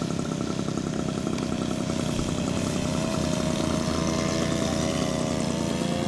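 Propeller aircraft engine running steadily, with a higher wavering tone joining about halfway through.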